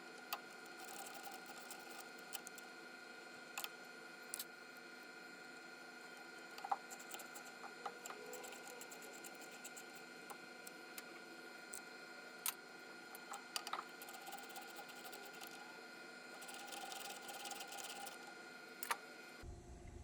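Faint, scattered clicks and light taps of hand-work on small parts, over a steady electrical hum.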